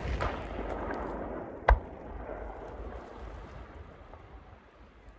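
Aerial firework shells bursting: a sharp bang about a second and a half in, over the crackle and rumble of an earlier burst that fades away over the next few seconds.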